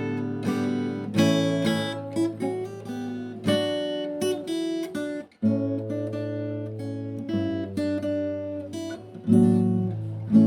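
Background music played on acoustic guitar: a run of plucked notes over a held low bass note, with a brief break about halfway through.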